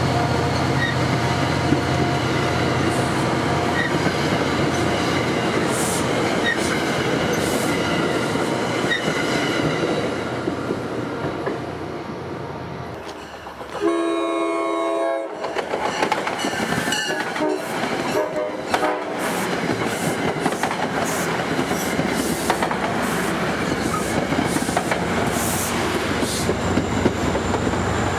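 New Jersey Transit commuter train cars rushing past close by, wheels rumbling on the rails. About halfway through, a diesel locomotive's multi-note air horn sounds for about two seconds as a second train approaches. That train's wheels then clack steadily over the rail joints as it passes close by near the end.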